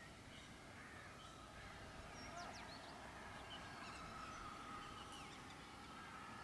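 Faint outdoor ambience: scattered short bird chirps over a quiet, steady high-pitched hum that grows slightly stronger about four seconds in.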